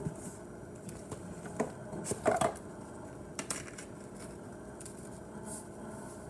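A few light taps and short rattles from seasoning shakers being shaken and handled over a bowl of raw eggs, the loudest cluster about two seconds in, over a faint steady hiss.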